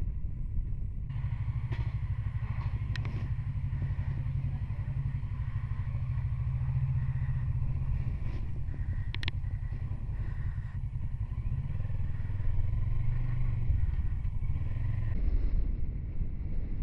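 Motorcycle engine running steadily while riding, with wind rushing over the microphone. A couple of brief clicks come about 3 and 9 seconds in.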